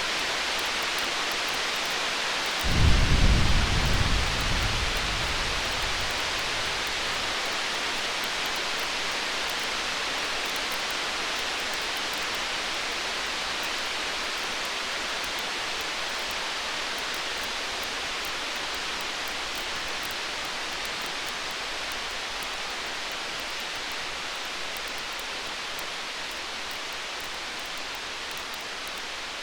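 Distant thunder rumbling once, a few seconds in, then fading away over a steady, even hiss of storm ambience.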